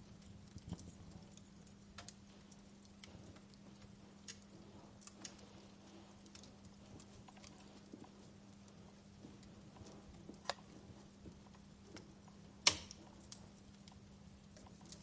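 Wood fire crackling softly, with irregular sharp pops and snaps; one louder pop comes about three-quarters of the way through. A faint steady low hum runs underneath.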